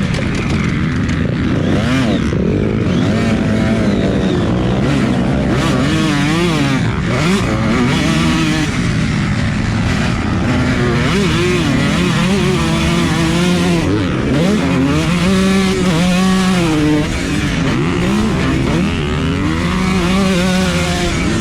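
Motocross dirt bike engine revving hard and falling back again and again as it is ridden around the track, over a steady rushing noise.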